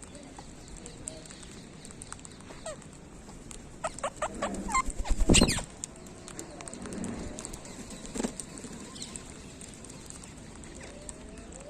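Parakeets calling: a quick series of sharp, high screeches with fast pitch glides, loudest about five seconds in, with a few fainter calls later.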